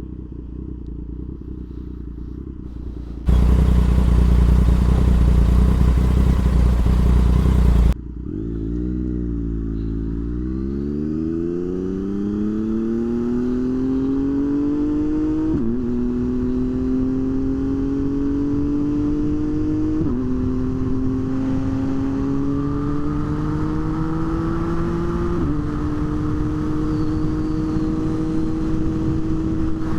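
Low steady rumble, then a loud rushing noise for about five seconds that cuts off abruptly. Then a motorcycle engine picks up and accelerates through the gears, its note climbing and dropping back at three upshifts before settling into a steadier pitch.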